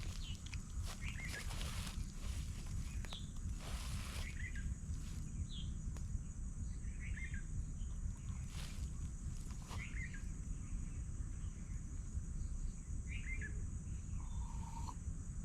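Forest ambience: a bird repeating a short chirping call every second or two over a steady high-pitched insect drone and a low rumbling background, with a few brief rustles.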